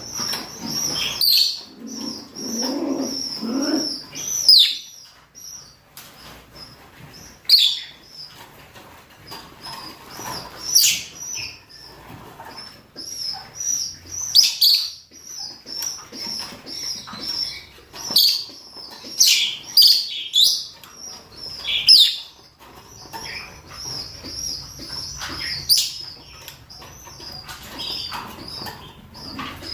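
Rosy-faced and Fischer's lovebirds, males and females, giving mating calls: a continuous high, shrill chatter broken every few seconds by sharp screeches that sweep downward in pitch.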